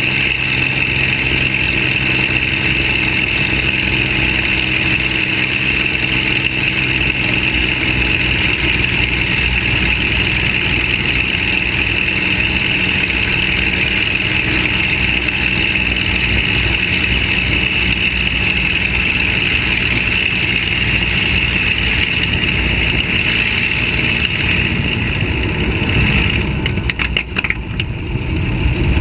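Packard-Merlin V-1650-7 V-12 piston engine of a P-51D Mustang running steadily at low power, heard from the cockpit. Near the end the sound breaks up with a few crackles and a brief dip in level.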